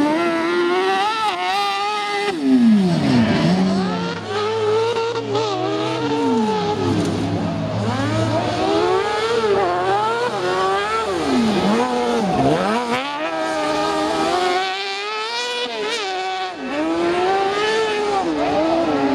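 A mini sand rail's Suzuki GSX-R inline-four motorcycle engine being driven hard off-road, revving up and falling back again and again. The pitch drops sharply about three seconds in and again near the middle.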